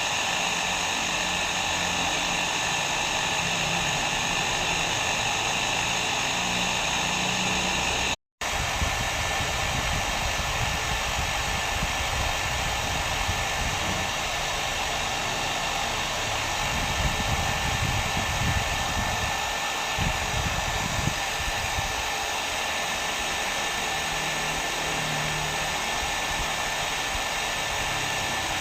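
Hair dryer blowing steadily with a dense whooshing hiss. About eight seconds in it cuts out for a split second, then resumes with a faint steady whine.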